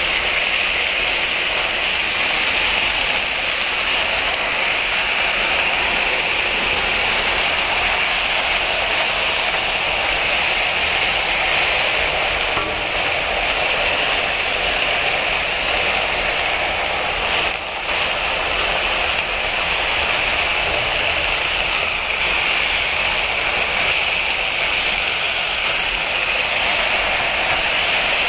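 Steady sizzling of sliced bitter gourd with onion, garlic and green chillies sautéing in oil in a wok, with a wooden spatula stirring and scraping through it.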